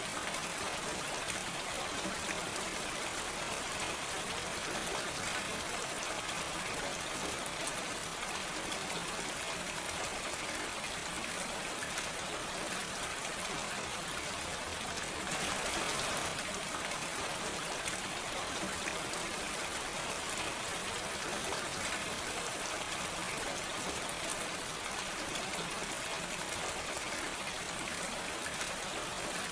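Steady gentle rain with no thunder, dense patter of drops falling on a surface, with a brief swell about halfway through.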